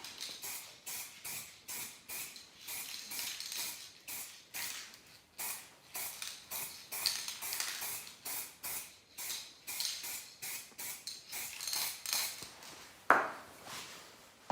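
Aerosol can of spray primer hissing in short, repeated spurts, about two a second. Near the end a single loud knock.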